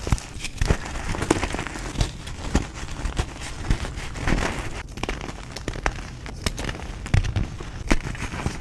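Reformed gym chalk being crushed and crumbled, giving irregular dry crunches and crackles, several a second.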